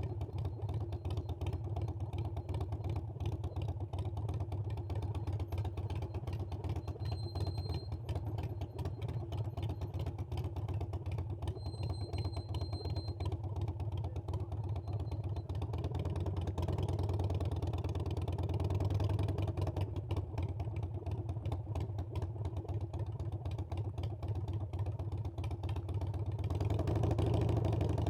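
Harley-Davidson Iron 883's air-cooled V-twin running under way, with a steady low pulsing note. It gets louder as the throttle opens about two-thirds of the way through and again near the end.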